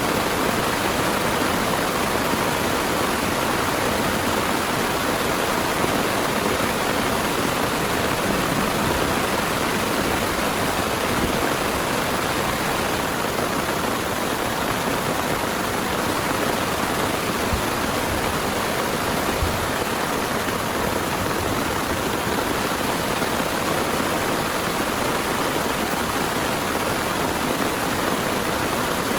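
Heavy rain pouring down steadily, an even dense hiss with no letup.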